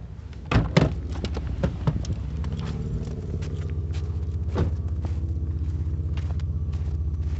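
Car door clunking open about half a second in, then the car's engine idling steadily, with scattered crunching footsteps in snow.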